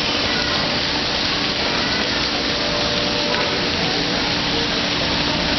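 Recycling truck running, a steady rushing noise with a faint low hum underneath.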